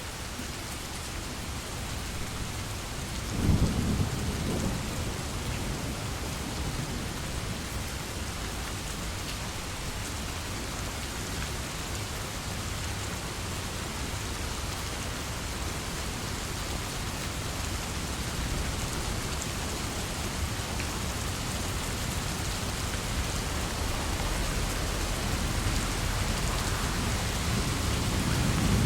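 Steady heavy rain falling. A sharp clap of thunder comes about three and a half seconds in and is the loudest moment, and low rolling thunder builds near the end.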